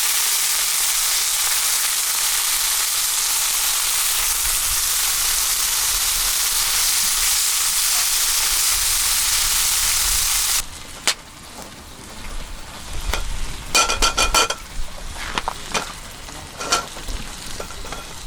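Food frying in a pan over the camp fire, a steady loud sizzle that cuts off abruptly about ten seconds in. After it come scattered light clicks and knocks of cooking utensils, with a short ringing tone near the middle.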